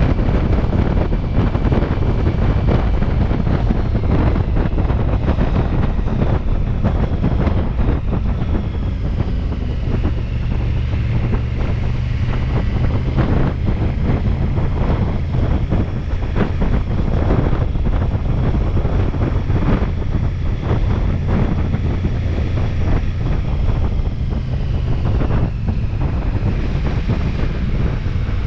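Wind rushing over the microphone of a Ducati Multistrada V4S motorcycle on the move, over its running V4 engine: a loud, steady rumble with a faint whine drifting slowly up and down.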